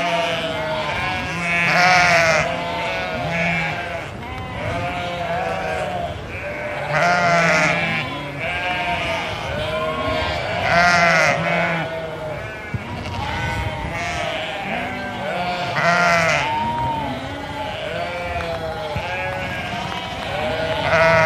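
A flock of sheep bleating: many overlapping calls of different pitches, with a louder bleat standing out every four to five seconds.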